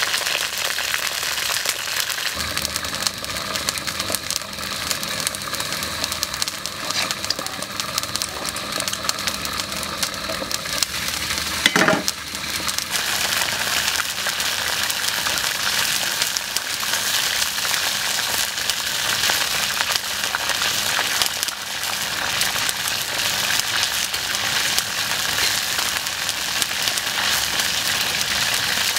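Whole frogs deep-frying in a wok of hot oil, a steady dense bubbling sizzle. A single sharp knock about twelve seconds in.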